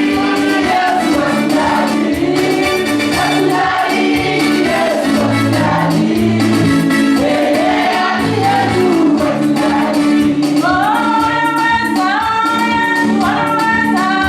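Gospel worship song: a choir singing over instrumental backing with bass notes and a steady beat.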